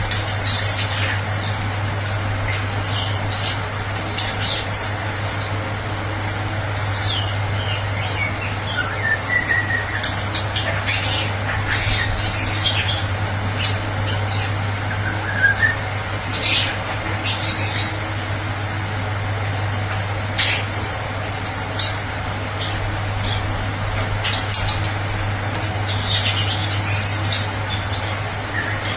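Starling singing: a jumble of clicks, chirps, squeaky falling notes and a few short whistles, over a steady low hum.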